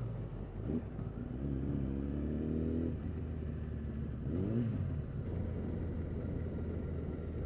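Kawasaki Ninja ZX-10R's inline-four engine running steadily while riding, with a brief rise and fall in revs about four and a half seconds in.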